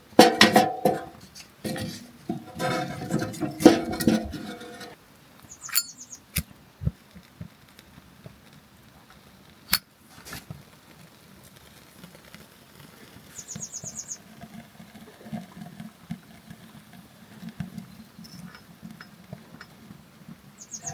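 Camp cookware and gear being handled, with a few seconds of clattering knocks and clinks. Then a few sharp clicks and a stretch of quiet, irregular light pattering.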